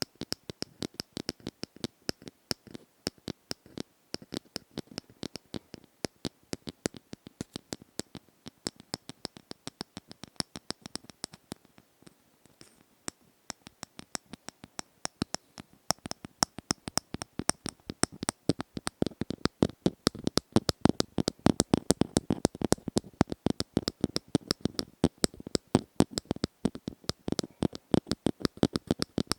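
Close-miked ASMR tapping: quick, irregular taps several times a second. There is a short pause a little before the middle, and the taps grow fuller and louder in the second half.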